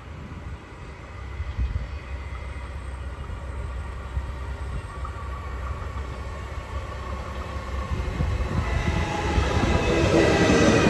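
Intercity V set, a double-deck electric multiple unit, approaching along the track, its rumble growing steadily louder. About eight and a half seconds in, wheel and rail noise rises sharply as the carriages draw level and pass close by.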